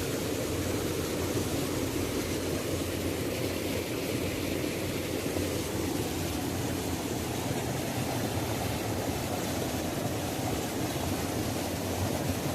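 Waterfall: a steady, unbroken rush of falling water, deepest in tone, with a fainter hiss above.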